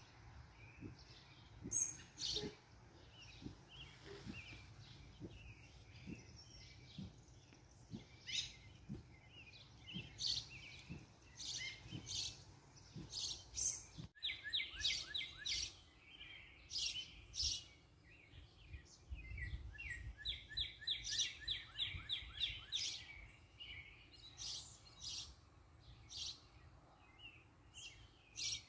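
Wild birds singing and calling: many short chirps and whistles, with two rapid trills of quick repeated notes, one about halfway through and another a few seconds later.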